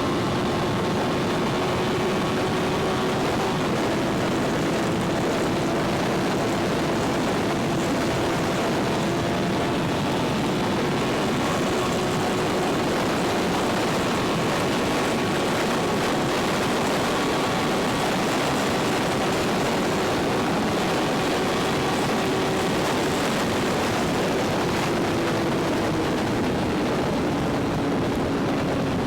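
Motorcycle engine droning at a steady cruise under heavy wind rush on the microphone, its pitch dipping a little near the end.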